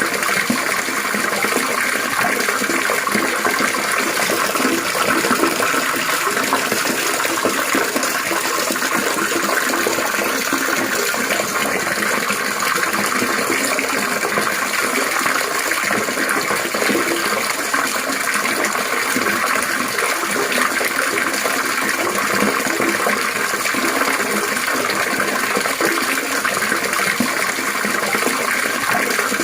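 Steady trickling, splashing water, running on without a break.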